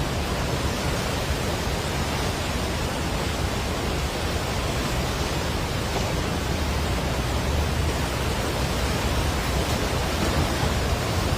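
Floodwater of a mountain river in spate, a steady, unbroken rush of turbulent water.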